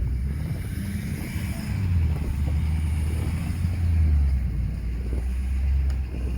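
Vehicle engine running at low speed while maneuvering, its deep note swelling and easing a few times, louder again about two and four seconds in.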